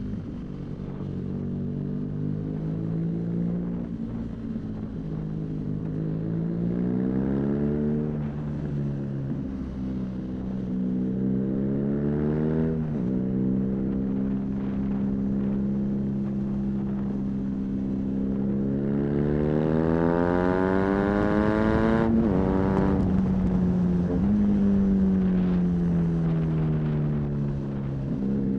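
BMW R nineT's boxer twin, breathing through an aftermarket Arrow exhaust, accelerating through the gears. The revs climb and drop sharply at each upshift, three times, with a stretch of steady cruising in the middle, over wind rush.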